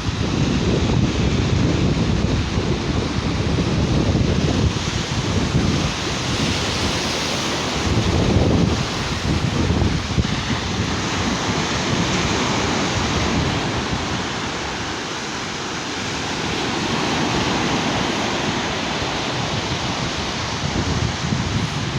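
Sea waves breaking and washing up a sandy beach, swelling and easing every few seconds, with wind buffeting the microphone in a heavy low rumble.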